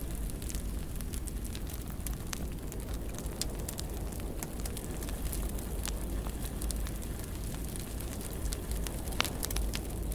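Fire burning in a fireplace, crackling with many small irregular pops over a steady low rumble, and one sharper pop near the end.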